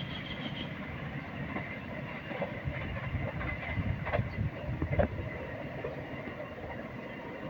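A train rolling along the track, a steady rumble with scattered clicks and knocks from the wheels on the rails.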